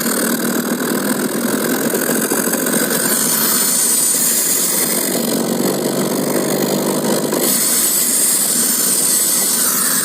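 Car engine running under throttle while driving, with a steady high whistling hiss over it from extra air drawn in by a fuel-leaning air-bleed device. The engine note swells about four seconds in and eases off sharply a little past seven seconds.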